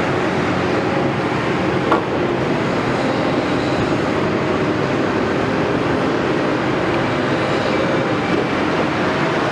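Cat 329E hydraulic excavator at work: steady diesel engine and hydraulic noise with a faint whine, and one sharp knock about two seconds in.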